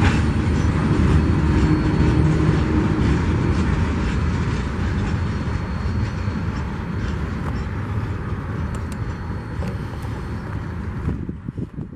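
Train rolling past: a steady rumble and rattle of the cars that slowly fades, dropping off sharply near the end.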